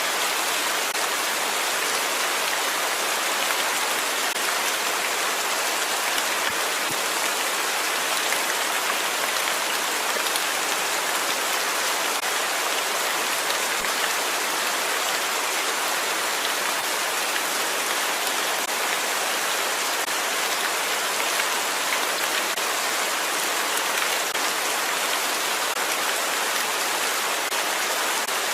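Steady rain falling, a continuous even hiss of drops on a surface with faint scattered patters.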